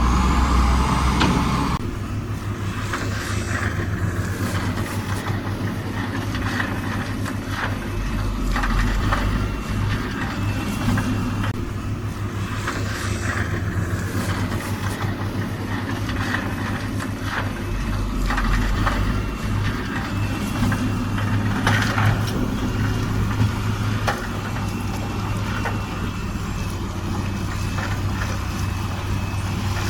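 Diesel engine of a heavy earthmoving machine running steadily, with frequent knocks and clatter throughout. It is louder for the first couple of seconds, then settles to an even level.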